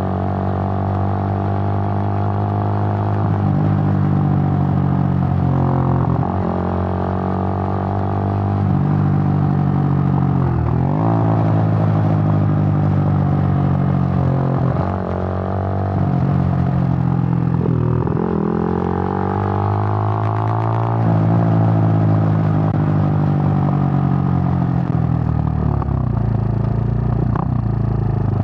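Suzuki GN125's single-cylinder four-stroke engine running while riding, the revs rising and dropping several times, with sharp dips about 6, 11, 15 and 18 seconds in.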